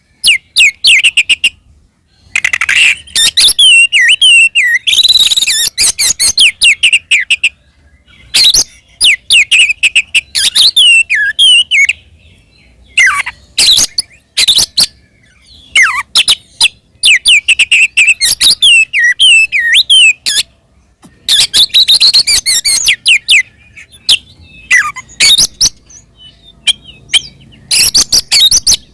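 Oriental magpie-robin (kacer) singing loudly in rapid bursts of varied whistles, gliding notes and chattering rattles, broken by short pauses. It is the bird's aggressive fighting song, the kind used to provoke other magpie-robins into answering.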